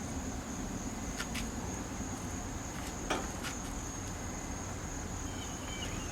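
Steady high-pitched insect chirring, with a few faint clicks.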